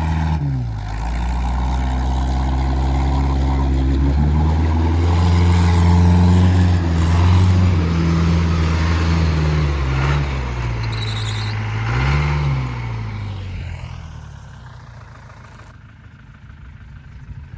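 Off-road vehicle's engine revving under load as it drives through deep muddy water, its pitch rising and falling with the throttle, over a hiss of churned water; the engine sound fades away near the end.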